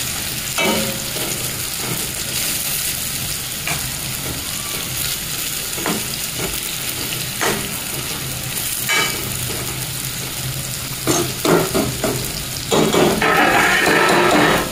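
Stuffed baby brinjals frying in oil and masala in a metal kadai, sizzling steadily while a metal ladle stirs and scrapes them, with short knocks of the ladle against the pan every second or two. Near the end the sound gets louder for a couple of seconds.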